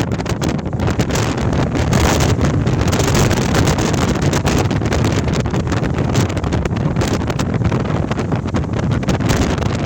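Storm-force wind blowing in gusts, with heavy low wind rumble on the microphone.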